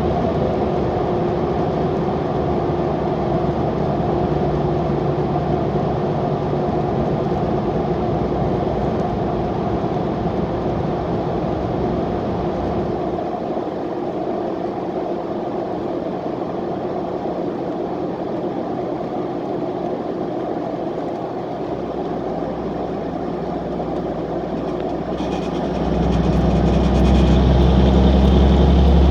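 Straight-piped 2003 Cummins 5.9-litre inline-six turbo diesel running steadily while driving, a low, even exhaust drone. The low end eases for several seconds in the middle, then the exhaust grows clearly louder near the end.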